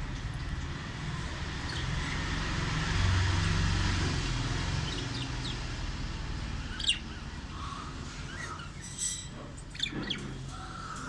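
Pet budgerigar giving a few short, sharp chirps, mostly in the second half, over a steady background hiss and low rumble.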